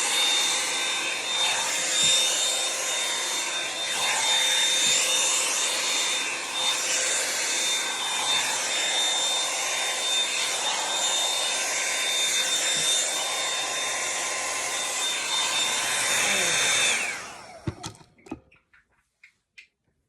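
Revlon One-Step hair dryer brush running: a steady blowing whir with a thin high whine. About seventeen seconds in it is switched off and winds down with a falling pitch, followed by a few light clicks.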